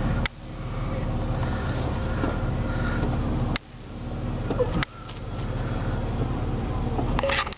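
The Jeep Wrangler's 4.0-litre inline-six idling steadily, heard from inside the cabin. A few sharp clicks come through, about four over the stretch.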